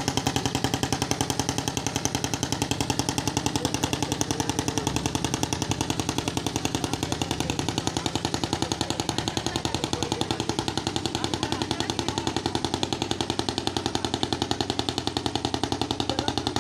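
Diesel engine of a bhotbhoti (motorised country boat) chugging steadily at a rapid, even beat.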